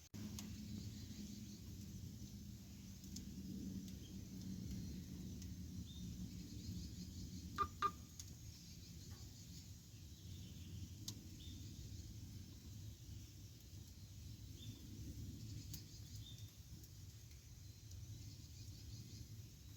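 Campfire burning with a low rumble and a few faint crackles, and two sharp pops close together about eight seconds in. Faint high chirps sound now and then.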